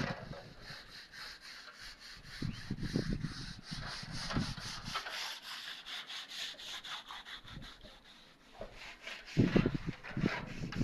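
Quick repeated scraping strokes on a hard surface, a few a second, with a few low bumps near the end.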